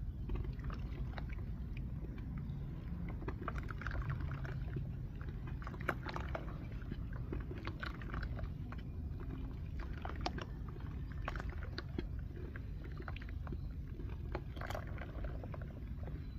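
Dry red dirt clay crunching and crumbling, an irregular scatter of small crisp cracks and crackles, over a steady low rumble.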